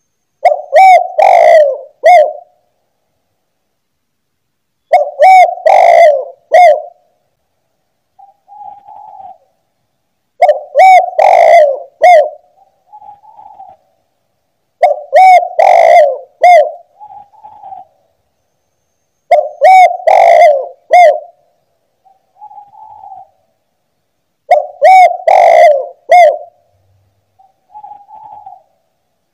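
Spotted dove (tekukur) cooing. The song phrase repeats six times, about every four to five seconds; each phrase is three or four loud coos, and most are followed by a fainter short note.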